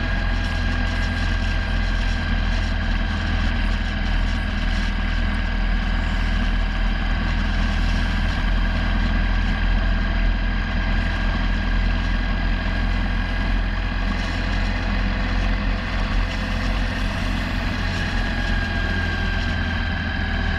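Motorcycle engine running steadily while riding, over a heavy low rumble. The engine note holds even and shifts slightly in pitch near the end.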